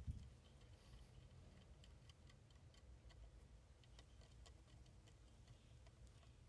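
Near silence: room tone with faint, irregular light clicks and ticks, and a brief low thump right at the start.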